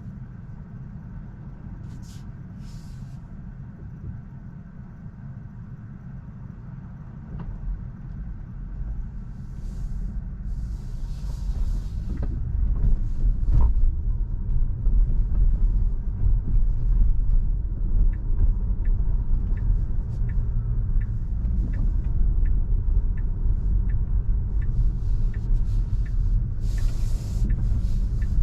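Road and tyre noise of a Tesla driving on city streets: a low rumble that grows louder from about seven seconds in as the car gathers speed, then holds. A light, regular ticking runs through the second half, and a few brief hisses come and go.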